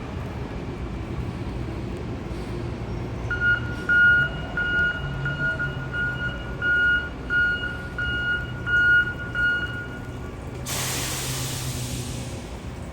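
A vehicle's reversing beeper beeping about twice a second for several seconds over a steady low engine hum, then a loud hiss lasting about two seconds.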